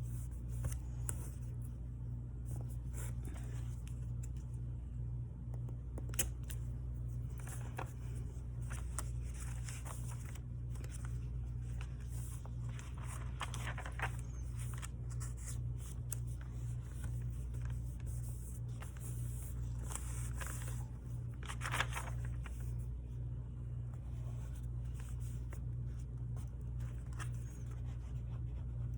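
Paper and washi tape being handled at a desk: scattered light rustles, scrapes and a few sharp clicks over a steady low hum.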